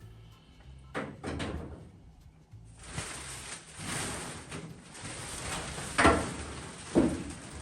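A couple of knocks, then two sharp loud bangs about a second apart near the end, like a door or cupboard being shut.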